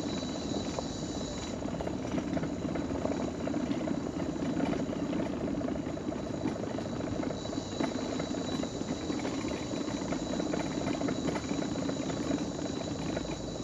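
Mobility scooter's electric drive and wheels running steadily as it rolls along, with a fast, even rattle and a steady high-pitched hum over it.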